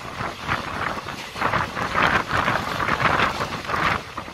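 Express passenger train running at speed through a station, heard from an open coach door: a continuous rush of wind and wheel-on-rail noise that surges unevenly, with wind buffeting the microphone.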